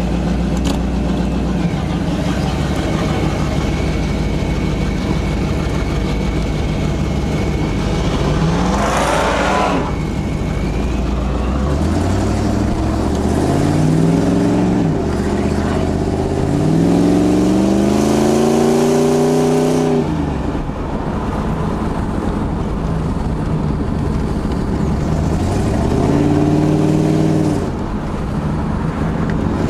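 Car engine pulling away and accelerating several times, its pitch climbing steeply in each run and dropping away as the throttle is lifted, between stretches of steady low running.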